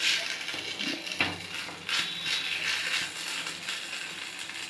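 Thick ground poha-and-pea batter frying in a pan of hot oil, crackling and sputtering as it is pressed flat by hand. There are a few sharper crackles, about a second and two seconds in.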